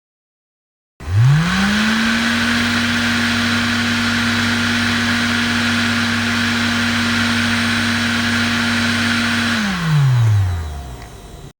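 Small DC-motor fan of a mini air conditioner starting up: its hum rises quickly to a steady pitch, runs steadily with a buzzy whir, then winds down as it is switched off near the end.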